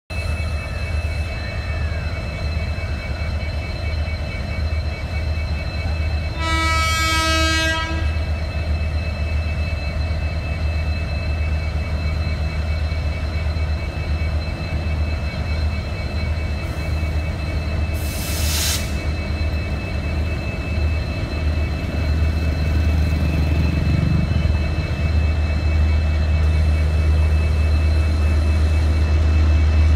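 A standing Indian Railways locomotive hums low and steadily. One horn blast lasting about a second and a half sounds about six and a half seconds in, and a short hiss comes near the middle.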